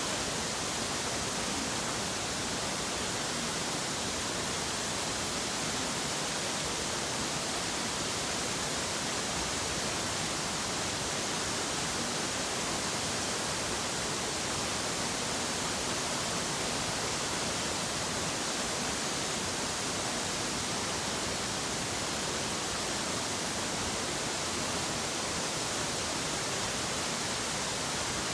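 Nachi Falls, a 133-metre waterfall, pouring steadily: a constant, even rushing hiss of falling water.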